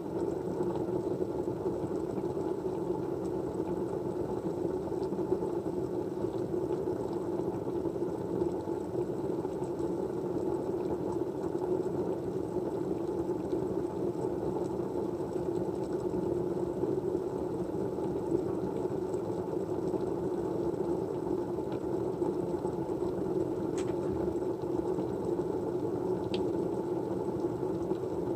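Steady, even rushing background noise, a white-noise ambience, with a couple of faint clicks near the end.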